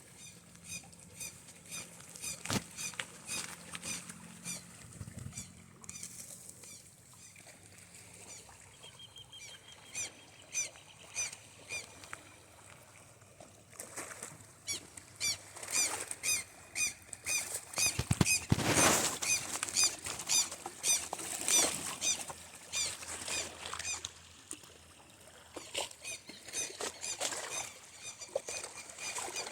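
Small birds chirping and singing in a dawn chorus, with many short, repeated high calls and a brief trill. A louder burst of noise comes a little past the middle.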